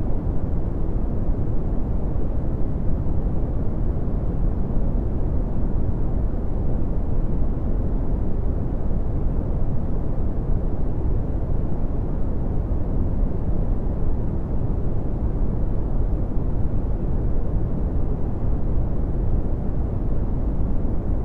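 Red (Brownian) noise: a steady, deep rumbling hiss with most of its energy in the low end, falling away toward the highs, unchanging throughout.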